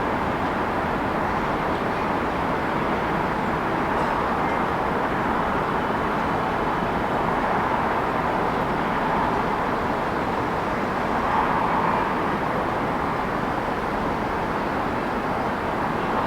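City traffic noise: a steady rush of passing vehicles with a slight swell about eleven seconds in.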